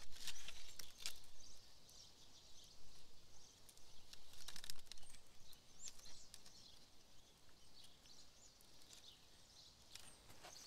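Forest ambience: small birds chirping faintly with short, high calls scattered throughout, and a few light clicks or rustles in the first second and again around four to five seconds in.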